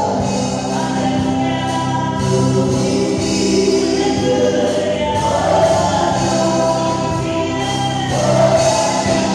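Choir singing a gospel song with instrumental backing, many voices holding and moving between sustained notes.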